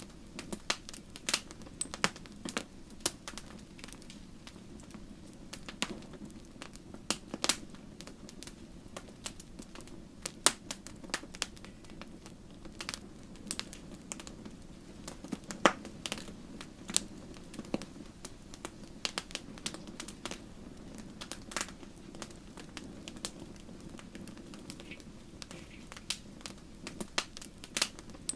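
Wood fire burning in a fireplace: logs crackling with irregular sharp pops and snaps over a steady low rush of flame.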